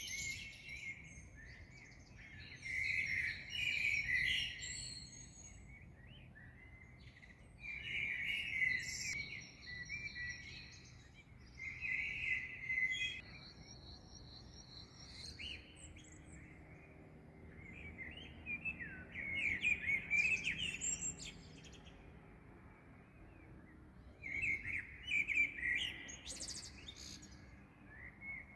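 Several songbirds singing in a dawn chorus, with phrases of chirps and clear whistles coming in bursts every few seconds over a faint background hiss.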